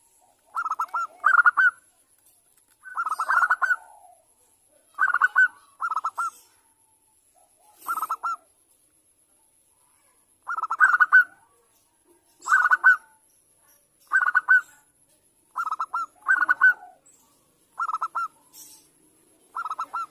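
Zebra dove (perkutut) cooing: short phrases of quick, rolling notes, repeated about every one to two seconds.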